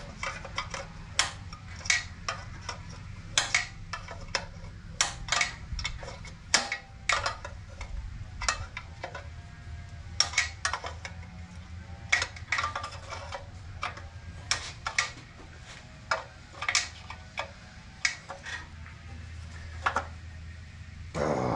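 Irregular metallic clinks and taps of hand tools and small metal parts being handled while fitting a go-kart throttle linkage, a few with a short ring, over a steady low hum.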